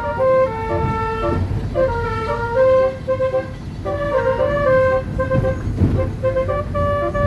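Electronic multi-tone air horn played through a red horn-type loudspeaker, sounding a salawat melody as a run of short stepped notes, over a low steady rumble.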